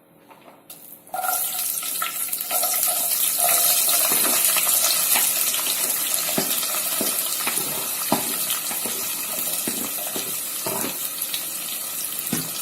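Shallots tipped into hot oil in a non-stick pan: a loud sizzle starts suddenly about a second in and holds on, with scattered knocks from stirring.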